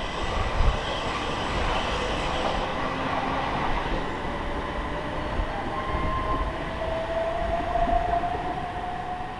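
Electric multiple-unit train running along the platform, a steady rush of wheel and rail noise with a thin whine that rises slowly in pitch over the second half.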